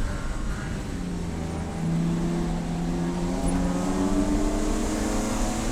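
Race car engine pulling under acceleration, its pitch climbing steadily; it gets louder about two seconds in.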